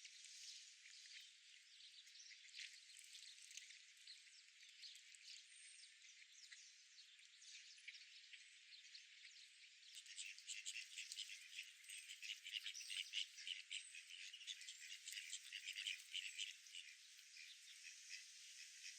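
Faint outdoor ambience: a soft hiss with a fast patter of tiny clicks, which thickens and grows louder for several seconds past the middle.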